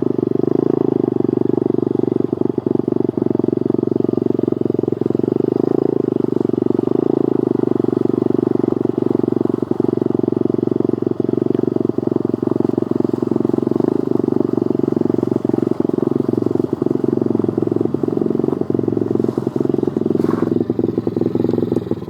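Pit bike's small single-cylinder engine running at a steady speed, with scattered rattles and knocks.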